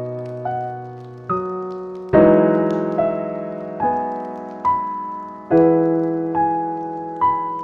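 Slow, gentle solo piano music: a note or chord struck a little under once a second and left to ring out and fade.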